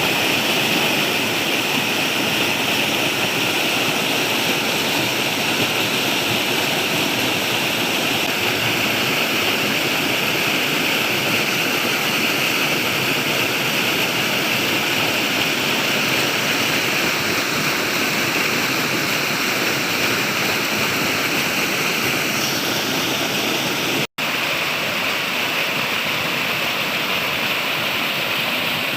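Flowing water rushing steadily, like a stream or small waterfall. It cuts out for an instant once, late on.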